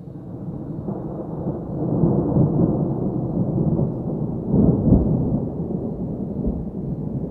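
Heavy thunderstorm: a low rolling rumble of thunder with rain, swelling about two seconds in and loudest around five seconds.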